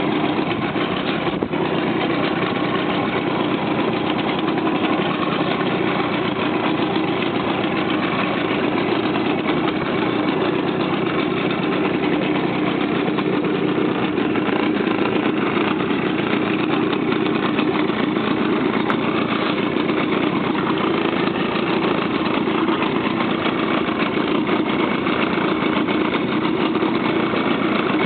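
Motorboat engine running steadily under way, with a constant drone and a hiss of wind and water.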